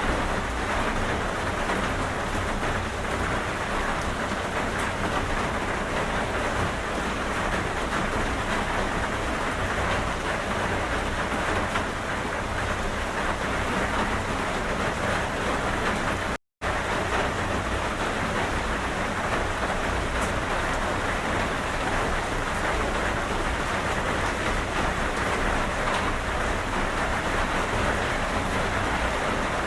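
Steady, even rain falling, with the sound cutting out completely for a split second a little past the middle.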